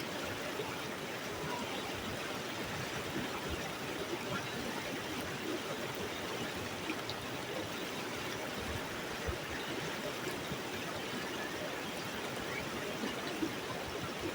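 Water of a mountain stream rushing steadily over rocks, with an even, unbroken wash of sound.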